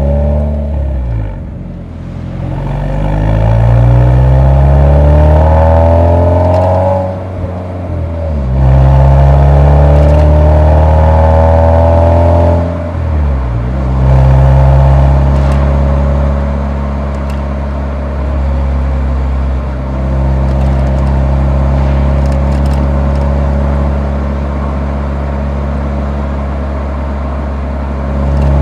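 Exhaust of a Nissan 180SX's four-cylinder SR20 engine heard through the muffler while driving: it pulls up through the revs twice, with a brief drop at each gear change, then settles to a steady cruise.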